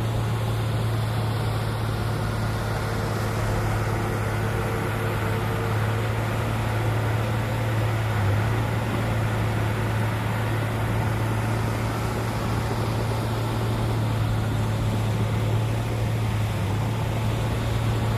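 Diesel engine of heavy earthmoving machinery running steadily with an even low hum.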